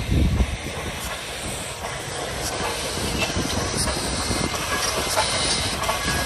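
Steam locomotive hissing steam, after a short loud burst right at the start.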